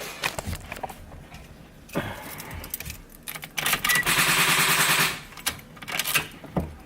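Scion FR-S starter solenoid chattering in rapid clicks for about a second and a half as the key is turned, without the engine cranking: normally the sign of a dead battery, though the starter was just removed and refitted and may be at fault.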